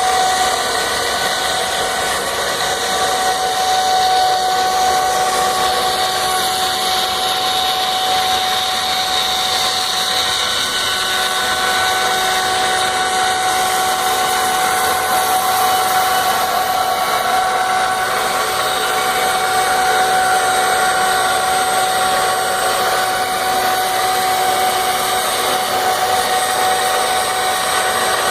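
CNC router spindle cutting acrylic (plexiglass) sheet: a steady high whine made of several held tones over a continuous cutting hiss.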